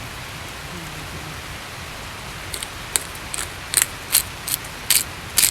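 Steady rain hiss, then from about halfway a run of short, crisp, irregular cutting snips as food is prepared.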